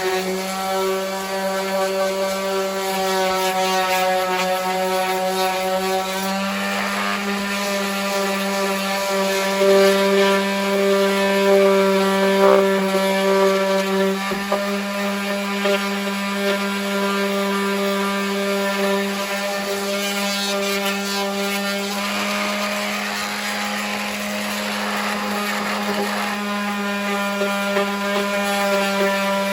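Electric palm sander running steadily while sanding fiberglass body filler, its motor a constant hum; the scratchy hiss of the sanding swells in a couple of stretches as the pad is pressed onto the filler.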